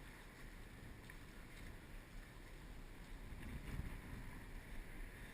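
Low, steady rumble of wind on the microphone, swelling briefly a little past the middle, with a few faint ticks.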